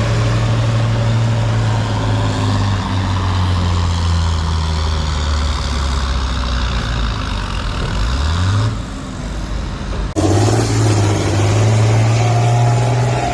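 Diesel tractor engine running hard under load, its pitch sagging and then rising again about eight seconds in. The sound breaks off abruptly about ten seconds in and resumes with the engine climbing.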